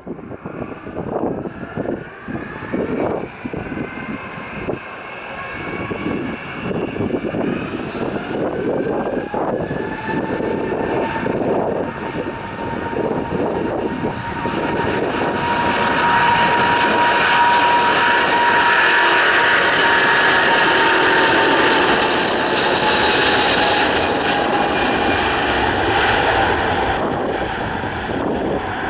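Airliner's jet engines passing close by, the whine and rush building over several seconds, holding loudest for a while, then fading.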